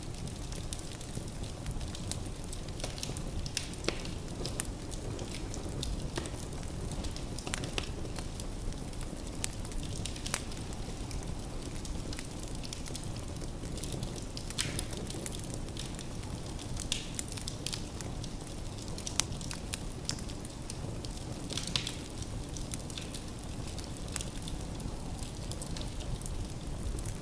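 Firewood burning in a fireplace: a steady low rumble of the fire with scattered sharp crackles and pops from the wood.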